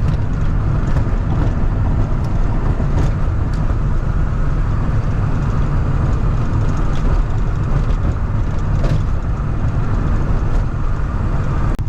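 Cab noise of a 1993 Ford F-350 with the 7.3 IDI diesel cruising at highway speed: a steady low drone of engine and tyres, with a few light clicks and rattles from the rough, broken road surface.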